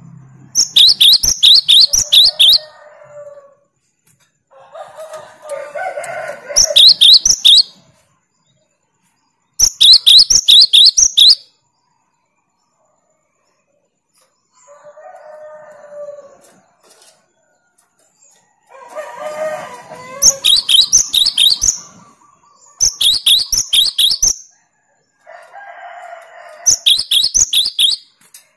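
Gelatik batu (cinereous tit) singing its rapid 'tembakan' song: six loud bursts of fast, high repeated notes, each about a second and a half long, with lower, rougher calls in the gaps between them.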